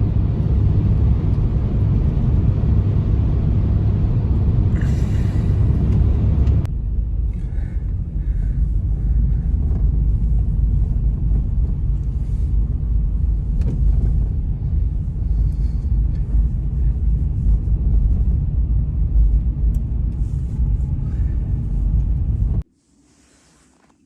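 Strong snowstorm wind, a steady low rumble. It shifts abruptly about seven seconds in and cuts off sharply near the end.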